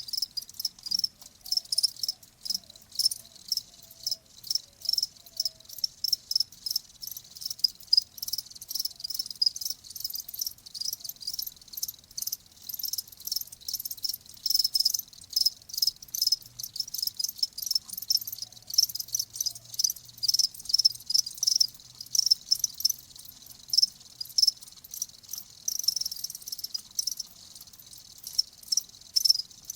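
Crickets chirping: quick, repeated high-pitched chirps, several a second, rising and falling in loudness without pause.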